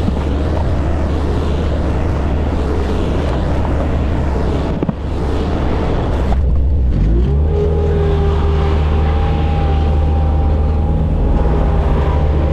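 Bobcat skid steer's diesel engine running steadily. About seven seconds in it revs up and holds at a higher, steady speed.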